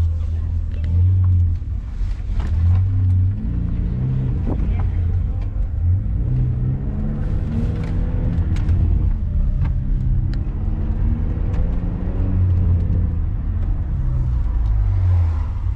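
Car engine and exhaust running with a heavy low rumble, the pitch rising and falling again and again as it revs and drives through the gears.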